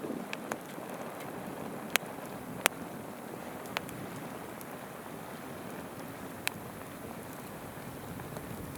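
Wood campfire crackling, with four sharp pops spread through it, over the steady babbling of a shallow river.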